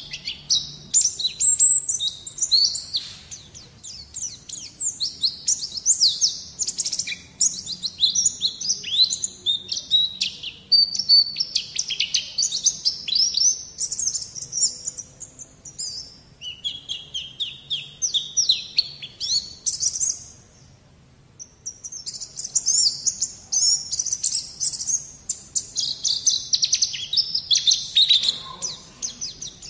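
White-eye (pleci) song: a fast, continuous twittering of high chirps, with a pause of about a second roughly two-thirds of the way through. This is tutor song played to get young white-eyes to start singing.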